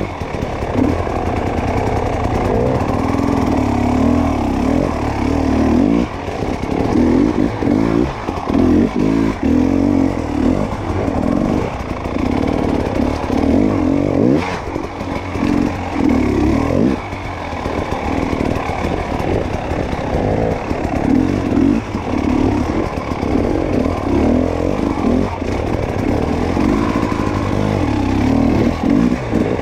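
Dirt bike engine being ridden, its revs rising and falling constantly under throttle as it works over rough trail.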